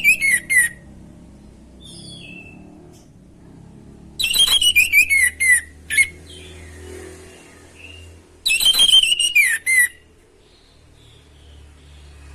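Orange-headed thrush singing loud, rapid phrases of whistled and sweeping notes, in three bursts about four seconds apart, with softer notes between them.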